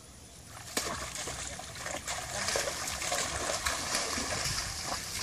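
Water splashing and trickling. It starts about three-quarters of a second in and is busy with many small splashes.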